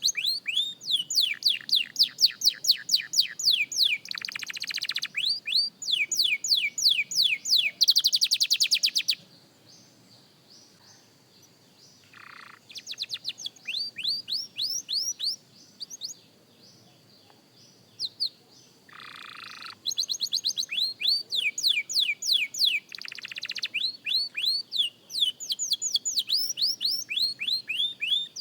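Young canary singing: fast trills of repeated whistled notes, with a few buzzy rolled phrases. The song breaks off about a third of the way in, comes back softer, pauses again, then picks up loudly for the last third.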